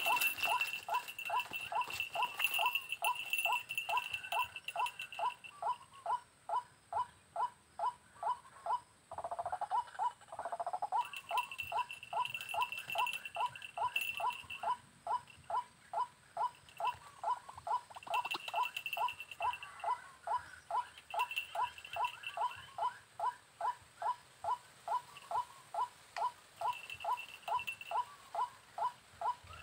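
White-breasted waterhen calling, a monotonous ruak-ruak note repeated about two to three times a second without a break. A high, thin, steady tone comes and goes over it in stretches of a second or longer.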